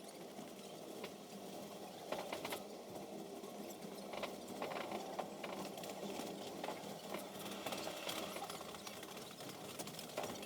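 Sleeper train under way, heard from inside the compartment: a faint steady rumble with light, irregular clicks and rattles.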